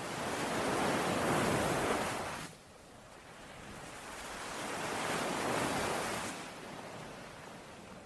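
Ocean waves washing in on the shore: two surges of surf, the first swelling and cutting off suddenly about two and a half seconds in, the second building more slowly and fading near the end.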